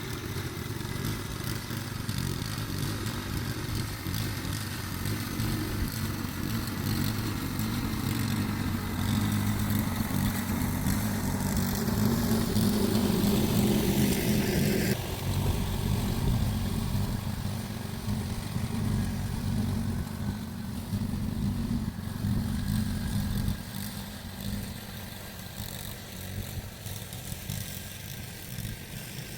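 An engine running steadily. It gets louder toward the middle, changes abruptly about halfway through, then grows fainter toward the end.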